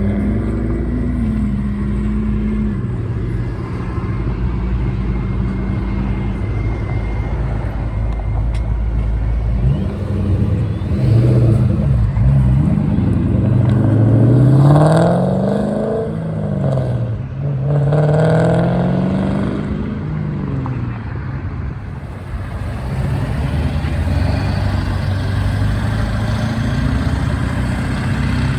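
Car engine running, then revving up hard twice in the middle as the car accelerates away, with a drop in pitch between the two pulls like a gear change, before settling back to a steady drone.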